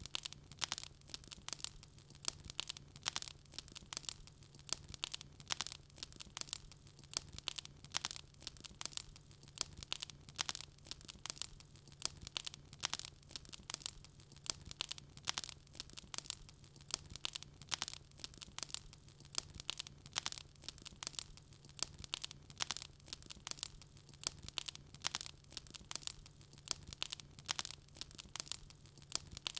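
Wood fire burning in a fireplace, crackling and popping with many irregular sharp snaps each second. A faint steady low hum runs underneath.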